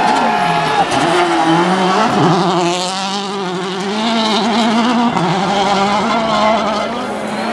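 Rally car engine running hard, its pitch dropping sharply at the start, then climbing and falling again as it lifts off and accelerates through gear changes.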